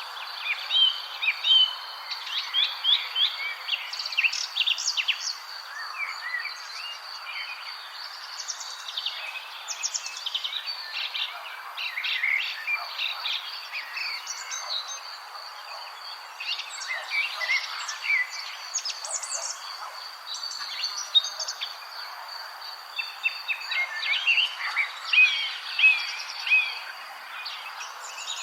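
Several songbirds chirping and singing in quick, overlapping phrases, over a steady, high, unbroken insect trill and a soft background hiss.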